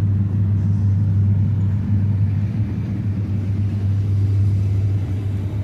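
Steady low-pitched hum with no distinct event in it.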